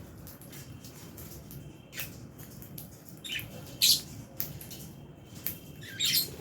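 Lovebirds giving short, sharp high-pitched chirps, about half a dozen scattered calls with the loudest near the middle and a slightly longer call near the end.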